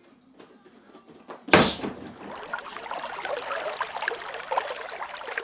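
A single sharp thump about one and a half seconds in, followed by a steady crackling rustle of many small ticks.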